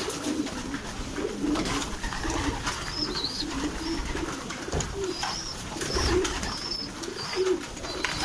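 A flock of domestic pigeons cooing over and over, with scattered short clicks and a few faint high chirps as they crowd and feed on grain. Low rumbles of strong wind come through twice near the middle.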